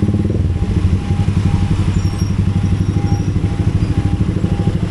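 Motorcycle engine running steadily, its exhaust pulses coming fast and even, with a faint high beep repeating about twice a second over it.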